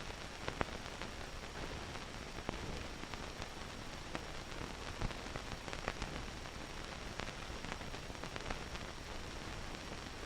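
Steady hiss with scattered faint clicks and crackles, the surface noise of an old film soundtrack.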